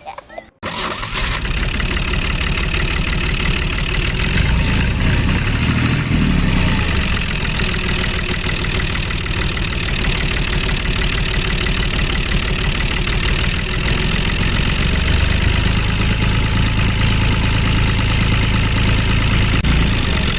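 Motor of a homemade mini tractor running steadily, starting abruptly about half a second in.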